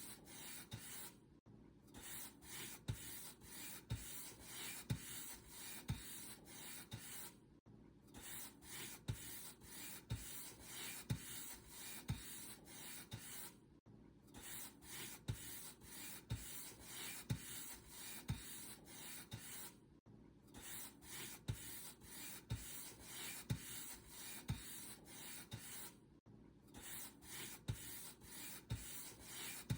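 Paint brush bristles stroking back and forth across a surface in repeated rubbing strokes, about one a second, with a short break roughly every six seconds.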